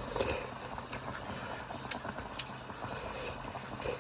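Eating sounds: chewing, with a few short light clicks of utensils, over a steady low hum.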